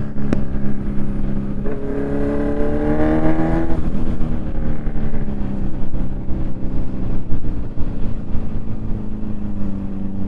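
KTM Duke 390 single-cylinder engine under way: it pulls up in pitch for about two seconds, then eases off and runs steadily, with wind noise on the microphone throughout.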